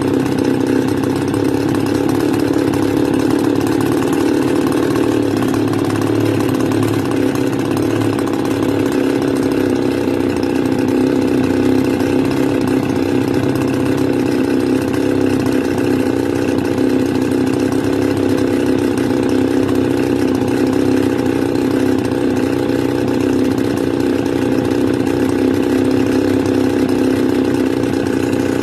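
Stihl FS280 brush cutter's two-stroke engine idling steadily with its idle speed screw turned up. This is a warming engine that tends to stall once hot.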